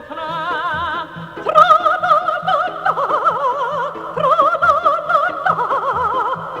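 Operatic-style soundtrack music: a singing voice holding notes with wide, even vibrato, moving to a new pitch about every second, over light accompaniment.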